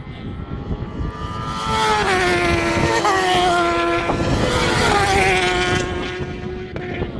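Superbike engine running hard as it passes, swelling to its loudest through the middle, with its pitch dropping in two steps before it fades.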